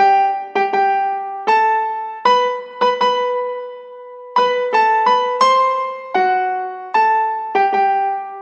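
Piano intro music: a simple melody of single struck notes, each ringing and fading, with one note held longer near the middle.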